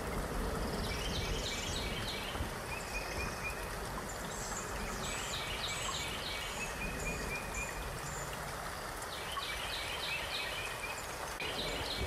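Steady rush of flowing water, like a stream, with a small songbird singing short phrases of quickly repeated high chirps, four times over.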